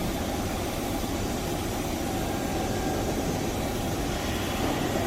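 Electric commuter train running through a station, giving a steady rumble with a wash of rail and motor noise.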